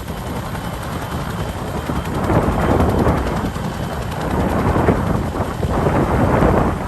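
Firefighting helicopter's rotors running close by, its downwash blowing hard across the microphone in loud gusts.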